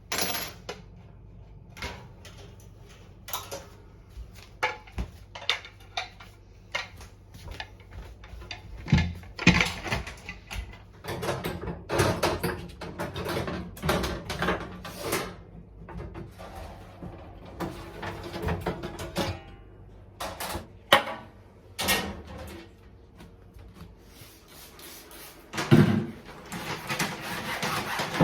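Handling noise of kitchen cleaning: many separate clicks and knocks of parts being handled, with stretches of scrubbing or rubbing, over background music.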